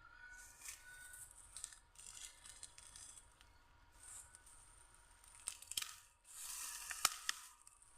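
Dry grass and leaves rustling and crackling as they are pushed aside by hand, with a few sharp snaps about 5.5 and 7 seconds in.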